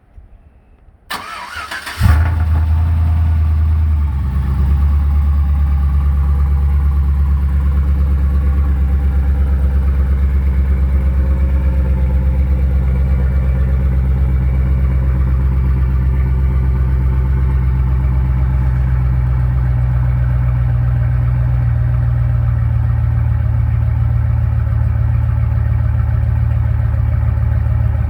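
Cold start of a 2008 Chevy Silverado's 4.8-litre V8 fitted with a TSP 218/224 turbo cam, exhaust through shorty headers and a Carven R muffler dumping before the axles. The starter cranks briefly about a second in, the engine catches about two seconds in, and it then idles loud and steady.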